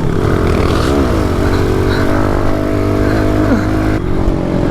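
Pit bike engine revving up and back down, then holding a steady pitch before dropping off near the end, under a steady low rumble.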